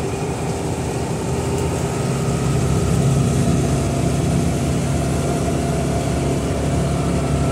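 Citroën 3CV's M28 air-cooled flat-twin engine, fitted with electronic multipoint fuel injection, running steadily under heavy throttle in fourth gear at around 4,000 rpm, with road noise.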